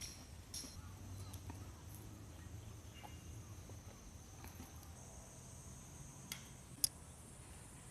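Faint insect chirping: short high chirps repeating about twice a second, giving way to a steady high-pitched drone from about halfway through. A single sharp click near the end.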